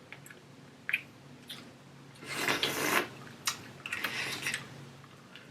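Wet eating sounds from a seafood boil in butter sauce: scattered short clicks and squishes, with two brief hissing, slurpy stretches about two and four seconds in.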